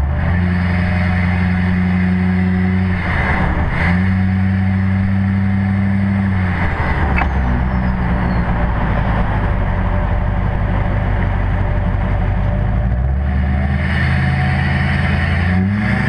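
Straight-piped Duramax LMM 6.6 L V8 turbo-diesel, with no cat, DPF or muffler, running loud and deep. Its note holds steady, dips briefly about three seconds in, shifts pitch around seven and thirteen seconds, and climbs near the end as the engine speed rises.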